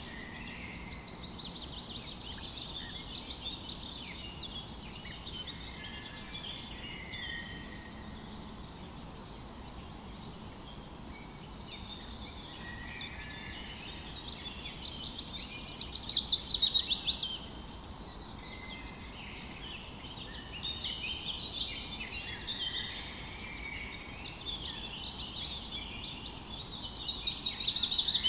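Morning chorus of several songbirds chirping and singing over each other. A loud, rapid trill comes about halfway through, and another near the end.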